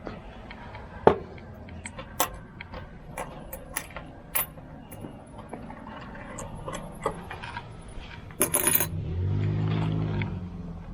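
Scattered small clicks and clinks of coins and items being handled at a shop till while paying. There is a short rustle about eight and a half seconds in, then a low buzzing hum for about a second and a half.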